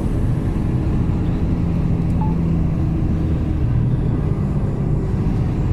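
Mercedes-Benz Actros truck engine running steadily on a mountain descent, its note shifting slightly about two-thirds of the way through.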